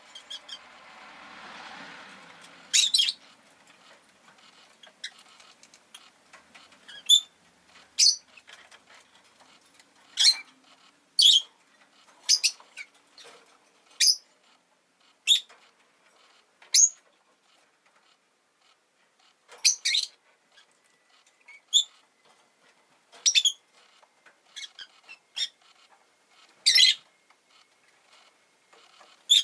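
Rosy-faced lovebird giving short, sharp single chirps every second or two, with a brief swell of low street noise near the start.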